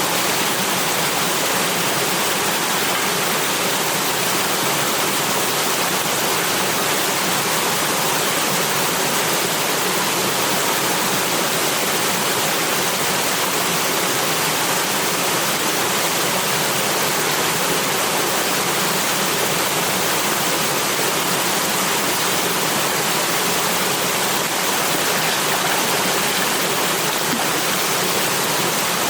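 Running water rushing steadily, an even hiss with no change in level.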